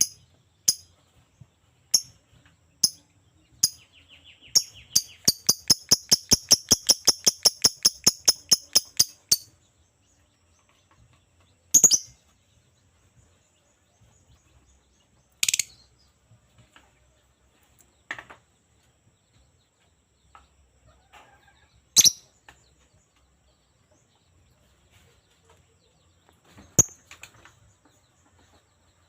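Lovebird chirping: a fast run of sharp, high chirps, about five a second, for some five seconds, then single loud chirps every few seconds.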